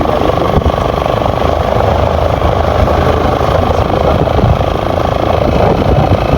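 Motorcycle engine running steadily under way, loud and close, with an even rapid pulse and road and wind noise mixed in.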